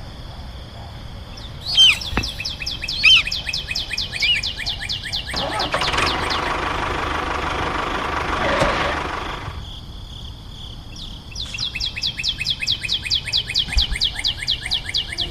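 A bird trilling in fast runs of high, falling chirps. About five seconds in, a steady rushing noise takes over for roughly four seconds, then the trilling comes back.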